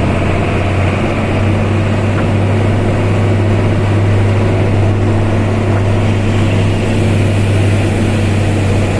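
Truck engine running steadily: a loud, even, low drone that holds one pitch.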